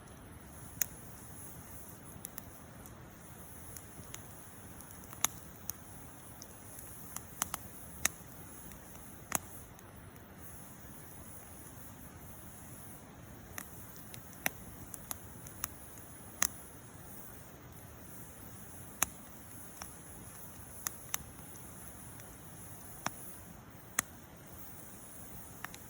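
Wood campfire crackling: firewood popping in sharp, irregular snaps, some loud and many faint, over a soft steady hiss of burning.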